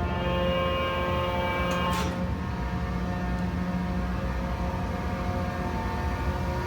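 1967 Rockford hydraulic open side planer running: a steady hum and whine of the hydraulic drive with several steady tones, and a brief sharp click about two seconds in.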